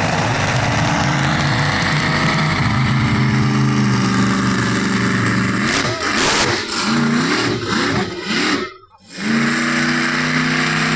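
Monster truck engine running loud under throttle, then revved in several quick blips that rise and fall in pitch. It drops out briefly near the end and comes back as a steady run.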